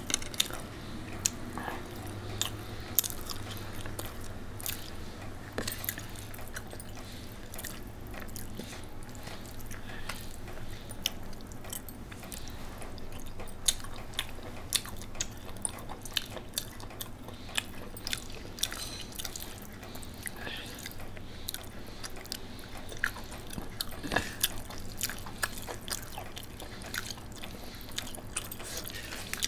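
Close-up eating sounds: a person chewing and biting, with frequent sharp mouth clicks and crunches, over a low steady hum.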